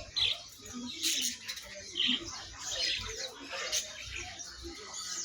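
Many caged songbirds chirping and tweeting, short high calls coming about once a second, over a faint background murmur.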